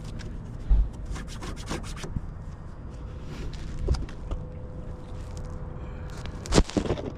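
Close handling noise: rubbing and scraping with a run of small clicks, and a few knocks, the loudest about six and a half seconds in. It comes from hands working a small plastic deer whistle and its adhesive backing, with a steady faint hum underneath.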